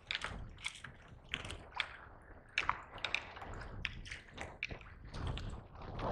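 Water slapping and splashing against a kayak, with irregular small taps and splashes.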